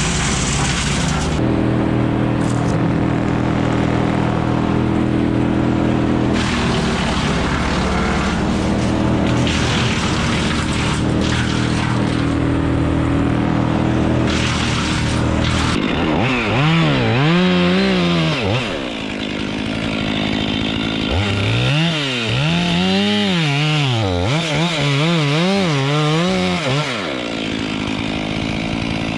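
Chainsaw engine running steadily at low speed, then from about halfway through revved up and down repeatedly, its pitch rising and falling over and over as when cutting wood.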